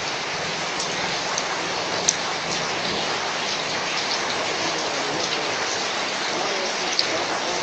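Steady rain falling, with scattered sharper drop ticks standing out, the clearest about two seconds in and another near the end.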